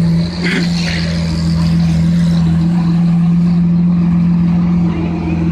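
Motor vehicle running at a steady pitch: a continuous low drone, with a couple of brief higher-pitched sounds about half a second in.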